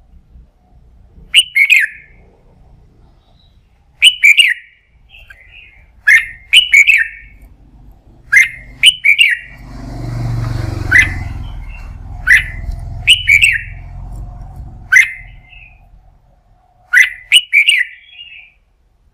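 Red-whiskered bulbul singing: short, loud, sharp phrases repeated every second or two, the song of a decoy bird calling other bulbuls. A low rumble swells up in the middle and fades away again.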